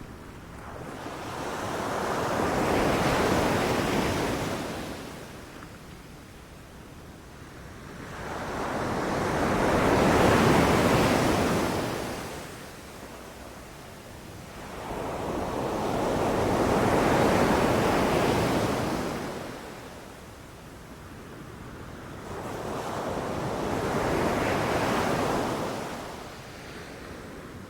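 Ocean surf: waves breaking and washing up the shore, four slow swells about seven seconds apart, each rising and then falling away.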